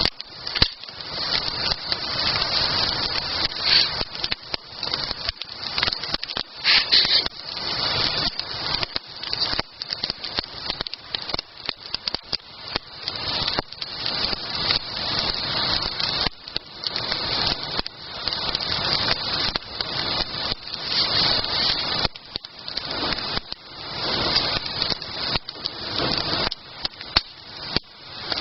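Wood campfire burning, crackling steadily with frequent sharp pops and snaps.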